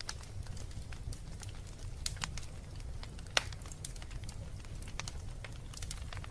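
Wood fire crackling in a fireplace: a steady low rumble of the flames with scattered sharp pops and snaps, the loudest pop about three and a half seconds in.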